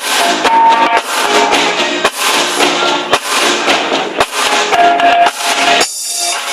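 A band playing music: a drum kit keeping a steady beat under held instrument notes. The sound thins out briefly near the end.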